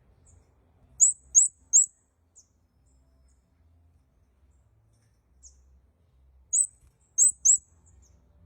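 Red-headed bunting (kemade kepala merah) calling: two quick runs of three sharp, high chirps about five seconds apart, with a few fainter single notes between.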